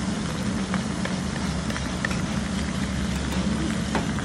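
Cabbage and leek frying in a hot pan, a steady sizzle as seasoning sauce is poured over them and stirred with a wooden spatula, over a constant low hum, with a few light clicks.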